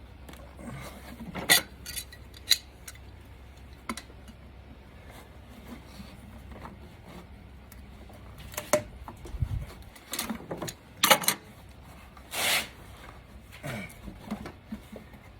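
Metal hand tools clinking and clacking as they are handled, in scattered sharp clicks with a few short scrapes, the longest near the end.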